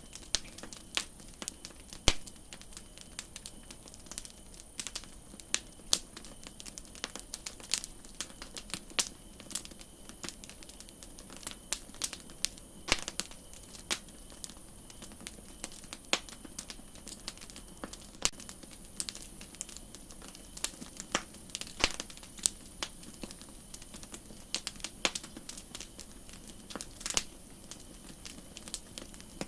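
Wood campfire crackling: irregular sharp pops and snaps, a few much louder than the rest, over a steady soft hiss.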